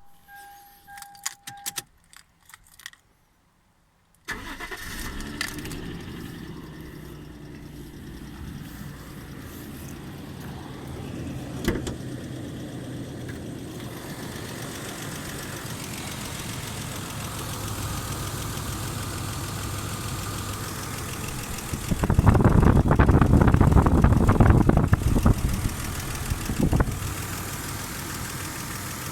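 Toyota Mark II's 1G-FE Beams straight-six engine: a few key clicks and a short chime, then the engine catches about four seconds in and idles, with a much louder stretch of a few seconds about three-quarters of the way through. The engine has a knock that the owner says is something other than the valve tick.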